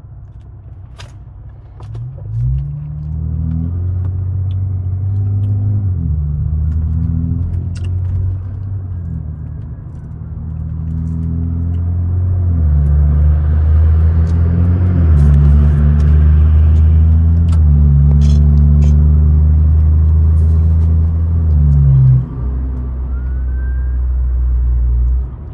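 Big-turbo BMW 540i's B58 turbocharged inline-six, heard from inside the cabin as the car drives on. The engine note climbs and drops in several steps as the transmission changes gear, then holds a steady loud drone before easing off near the end.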